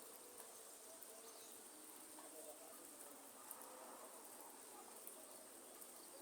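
Faint rainforest ambience: a steady, high-pitched insect drone over a soft hiss, with faint distant bird calls now and then.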